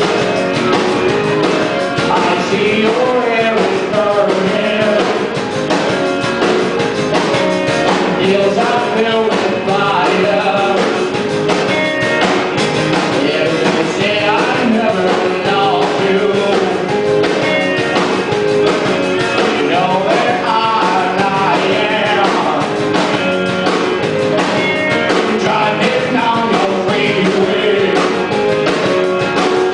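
Rock band playing a song: a singer over guitar and drums, loud and continuous.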